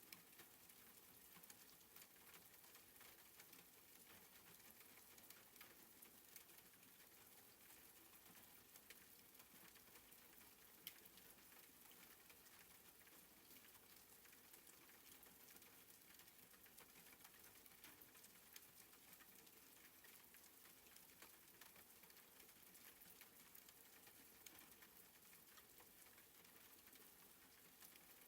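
Soft, steady rain pattering, faint, with scattered light drop ticks.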